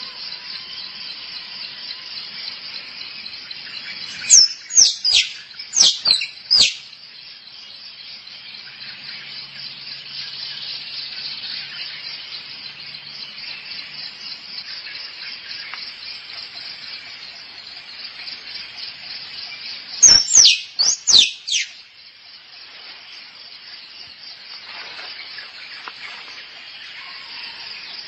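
Squirrel calling: two bursts of four or five sharp, high chirps that each drop steeply in pitch, about four seconds in and again about twenty seconds in. Under them runs a steady, fast-pulsing insect chorus.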